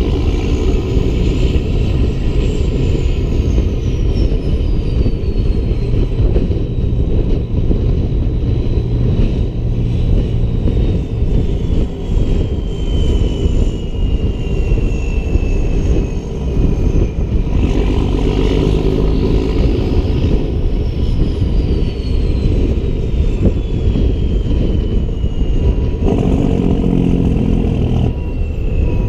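Peterbilt 388 semi truck's diesel engine running under way while hauling a loaded lowboy trailer: a loud, steady rumble with a thin high whistle that slowly falls in pitch, twice.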